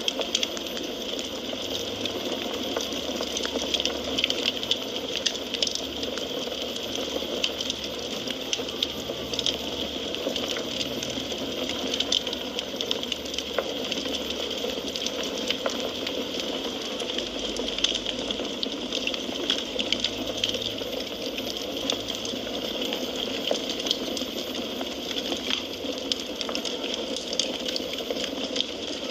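Wood fire crackling in a fireplace: frequent small pops and snaps over a steady hiss.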